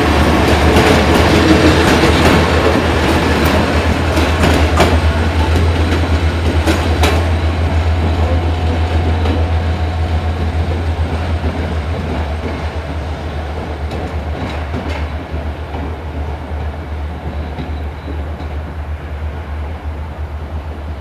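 Passenger train coaches rolling past and away, with a continuous low rumble and scattered sharp clacks from the wheels over rail joints and points. The sound fades steadily as the train recedes.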